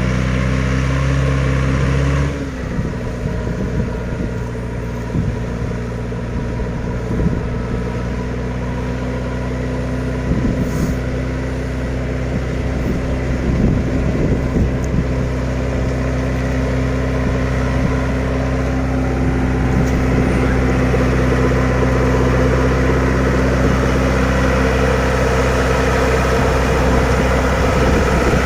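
A heavy vehicle's engine running with a low, steady note; about two seconds in its speed drops and it settles to a steady run.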